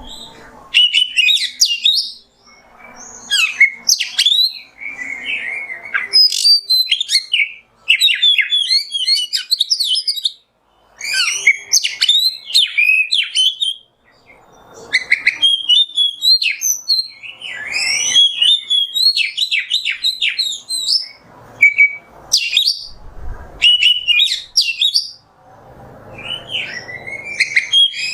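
Oriental magpie-robin (kacer) singing loudly: fast, varied phrases of whistles and chattering notes in bursts of a few seconds, with short pauses between them.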